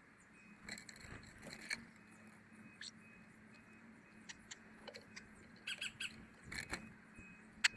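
Small birds giving short, scattered chirps and a few sharp clicks, over a faint steady hum.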